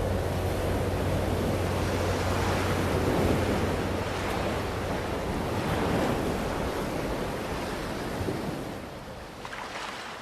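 Sea waves washing in a steady rush of surf, fading down near the end.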